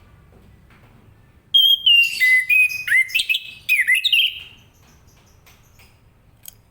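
Orange-headed thrush singing one loud, varied phrase of quick sliding whistled notes, starting about a second and a half in and lasting about three seconds.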